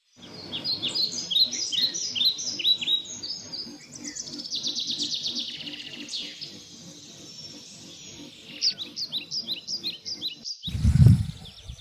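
Several small birds chirping: rapid runs of short, downward-sweeping high calls. Near the end the birdsong cuts off abruptly and a louder, low-pitched sound comes in.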